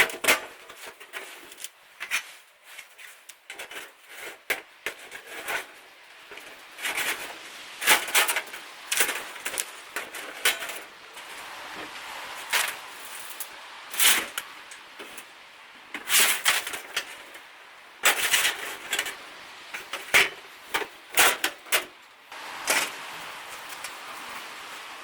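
A series of irregular sharp knocks and clatters, some in quick clusters, over a faint steady hiss.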